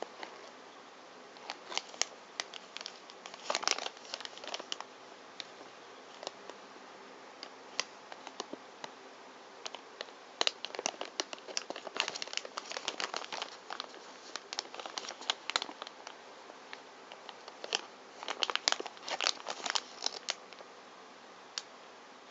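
Thin plastic wrapping of a capsule toy crinkling as it is handled and opened, with many small sharp clicks, in three busy bouts.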